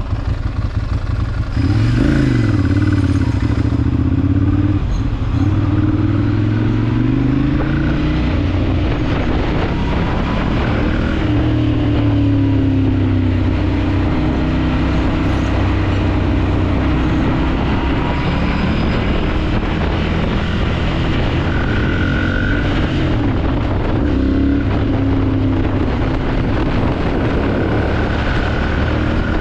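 Ducati Monster 796's air-cooled L-twin engine under riding load. It starts near idle, then about two seconds in the revs climb sharply, and they rise and fall again and again as it accelerates and shifts through the gears.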